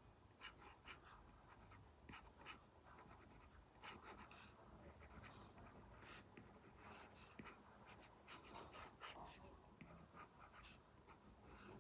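Apple Pencil Pro tip drawing on an iPad screen fitted with a paper-like film: faint, irregular short scratching strokes and light taps.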